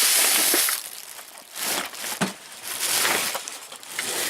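Clattering and rustling of small loose items being handled and rummaged through in a cabinet: a loud scraping rush at first, then a run of irregular knocks and clinks.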